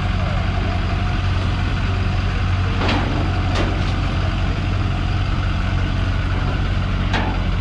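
A truck engine idling steadily, with three brief hisses during the idle.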